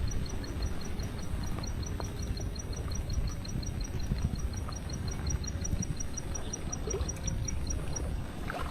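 Low rumbling outdoor noise, with a thin, evenly paced high chirping, about four to five chirps a second, that stops shortly before the end.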